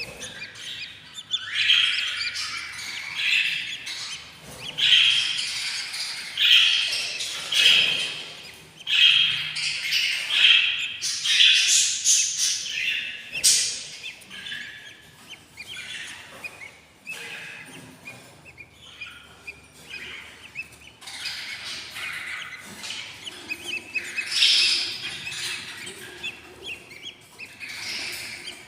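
Budgerigar chicks about eight days old making hungry begging chirps and squeaks in short repeated bursts, dense at first, thinning out past the middle, then picking up again near the end.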